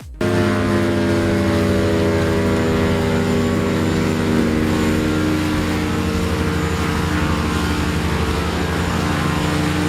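Large wood chipper engine running steadily at high revs. Its pitch sags slightly in the first few seconds, then holds even.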